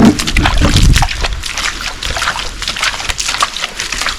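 Water sloshing and splashing in many quick irregular splashes, with a low rumble in the first second.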